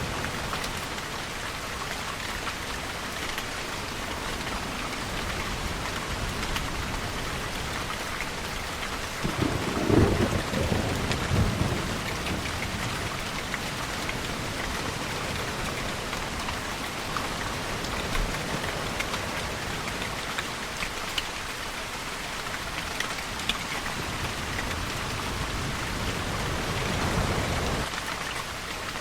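Steady rain falling, with a brief rumble of thunder about ten seconds in and a low swell building near the end.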